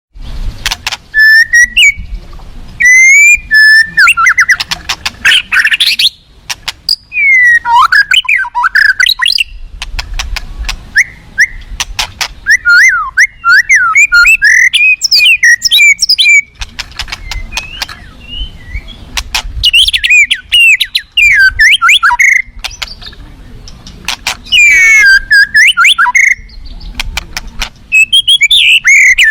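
White-rumped shama singing: loud, fast, ever-changing phrases of whistles, trills and sharp clicks, broken by short pauses.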